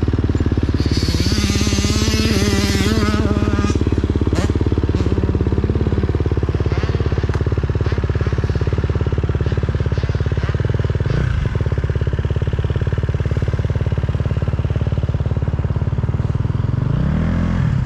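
Motocross dirt bike engine running steadily close by, then revved up and back down twice near the end.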